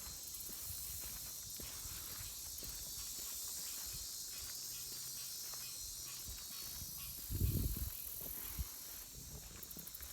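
Footsteps walking along a trail, about two steps a second, over a steady high-pitched hiss. A brief low rumble comes about seven and a half seconds in.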